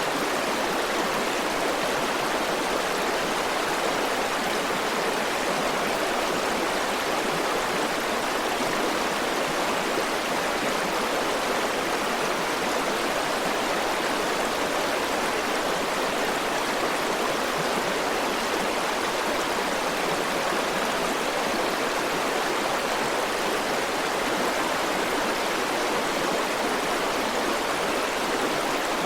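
River water running steadily over rocks, a constant even rush with no pauses or splashes.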